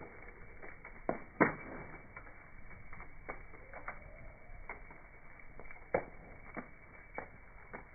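Wood fire crackling, with irregular sharp pops and snaps; the two loudest come about a second and a half in and near six seconds. The sound is slowed down with the slow-motion footage.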